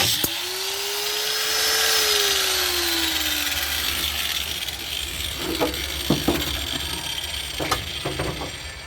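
A power tool is switched off, and its pitch sinks as it winds down over about three seconds. Several sharp knocks and taps of metal work follow.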